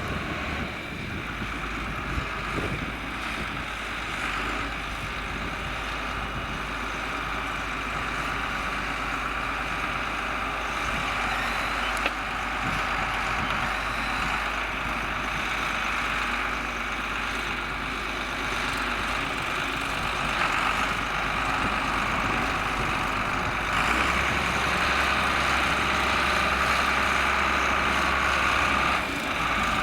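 John Deere 4850's six-cylinder diesel engine running steadily while pulling a six-furrow plough, growing gradually louder.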